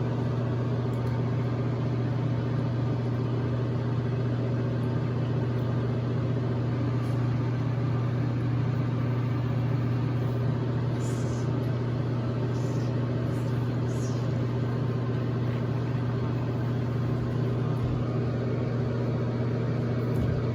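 A motor running with a steady low hum. A few faint, brief high hisses come about halfway through.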